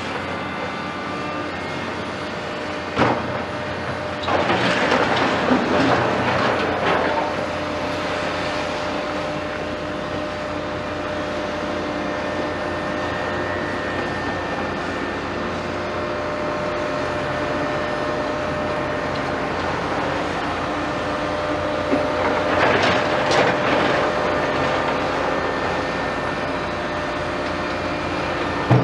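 Heavy diesel construction machinery running steadily, with a sharp knock about three seconds in and louder, rougher stretches around five seconds and again near the end.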